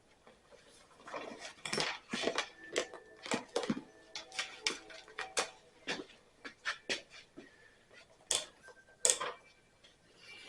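Irregular clicks, knocks and light metallic rattles of small tools and mower parts being handled while a PTO switch is readied for a continuity test, with two louder knocks near the end.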